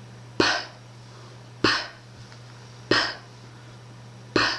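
A woman saying the English voiceless plosive /p/ in isolation four times, about a second and a quarter apart: each is a sharp pop of the lips opening, followed by a strong puff of breath (aspiration). A steady low hum is under it.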